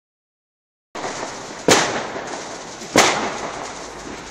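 Fireworks going off: two sharp, loud bangs about a second and a half apart over a steady hiss and crackle, starting about a second in.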